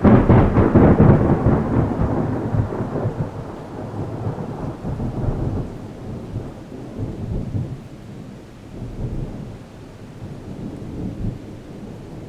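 A sudden crack of thunder, loudest for the first two seconds, then a long rolling rumble that swells again several times as it slowly fades. Rain falls throughout.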